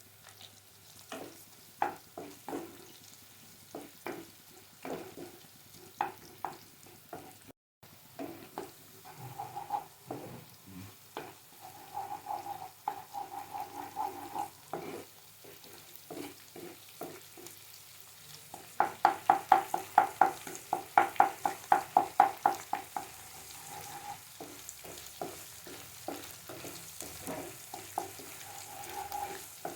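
Spatula scraping and knocking against a pan while stirring onions, green chillies and ginger-garlic paste frying in oil, over a faint sizzle. A quick run of louder knocks, about three to four a second, comes around two-thirds of the way through, and the pan rings briefly with some of them.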